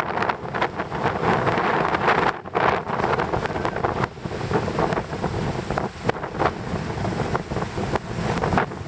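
Strong wind buffeting the microphone in gusts: a loud, rough rushing that rises and falls, with brief lulls.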